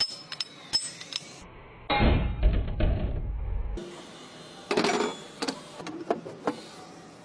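Metallic knocks and clinks from a car's suspension, the noise being diagnosed, with a louder low rumbling, rattling stretch of about two seconds in the middle.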